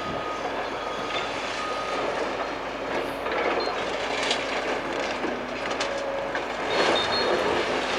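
Building demolition: a continuous din of clattering and grinding, with scattered knocks and brief high metal squeals, louder near the end.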